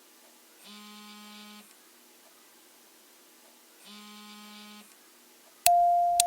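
Two buzzy electronic beeps, each about a second long and about three seconds apart. Near the end a loud, clear electronic note starts abruptly with a click and slowly fades.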